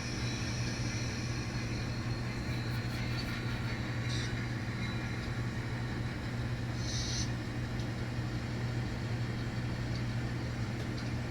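N scale model train running on the layout track: a steady low hum with a few brief, faint pops, which the operator hears as wheel popping from a troublesome car.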